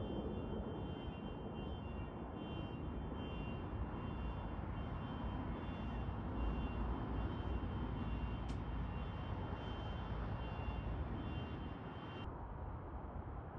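Jet airliner engines running: a steady, even rush with a thin high whine over it. The whine stops abruptly near the end.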